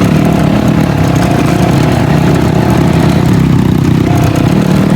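Dirt bike engine running at a steady, even speed without revving up or down.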